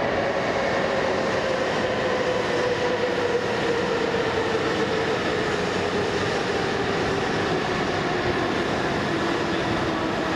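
A train running, a steady noise with a whine that slowly falls in pitch.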